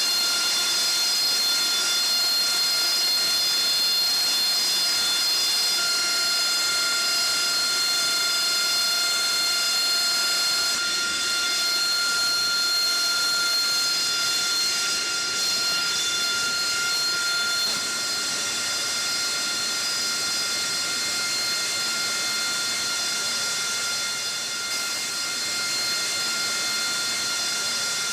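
AV-8B Harrier II jump jet's Pegasus turbofan running: a steady rushing hiss with several high, steady whining tones, easing slightly about two thirds of the way through.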